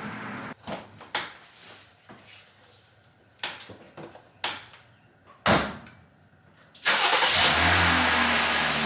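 A few separate clicks and knocks, then about seven seconds in a Jeep Gladiator's engine is started, catching at once and settling into a steady idle.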